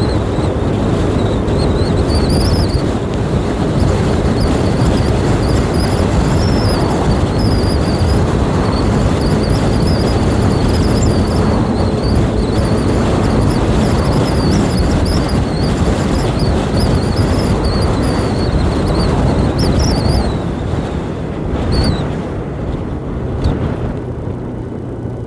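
A 125 cc learner motorbike being ridden at speed, its engine and wind rush steady and loud, with a wavering high whine above. About twenty seconds in it eases off and goes quieter as the bike slows.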